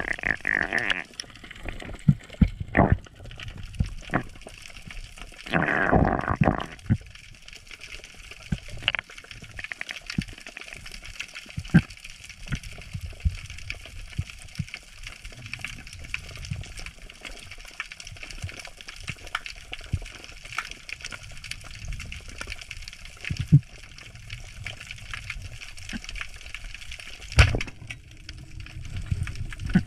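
Water gurgling and sloshing over a steady hiss, with scattered clicks and knocks. There is a louder gurgling burst about six seconds in and a sharp knock near the end.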